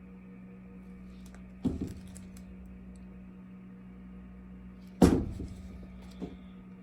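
Two sharp knocks, the second louder, followed by a small third knock, over a steady low hum.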